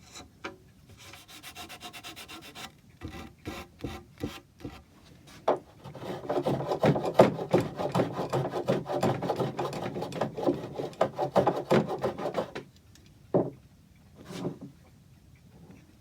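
Wood being abraded by hand with quick back-and-forth strokes. Light, scattered strokes at first, then a fast, dense run of strokes from about six to twelve seconds in, ending in two single strokes.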